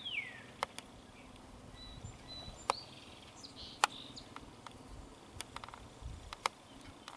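Birds calling outdoors. A clear whistle slides down in pitch right at the start, then faint, thin high calls follow, with scattered sharp ticks.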